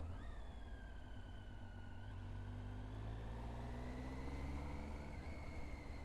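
Triumph Street Triple R's three-cylinder engine running on the move, its revs climbing gently over the first few seconds and then holding steady, with a thin high whistle over it.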